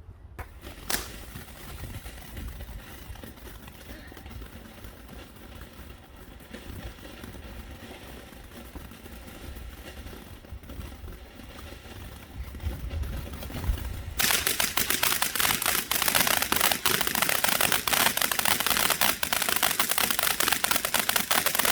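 Garden firework: a steady hiss, then about two-thirds of the way through a loud, rapid crackling that sounds like a string of tiny pops and cuts off suddenly at the end.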